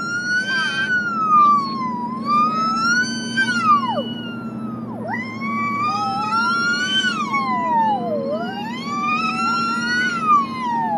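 Emergency vehicle siren wailing, its pitch rising and falling slowly about every three to four seconds, with other gliding wails crossing it, over a steady low hum. The listener takes it for a fire truck.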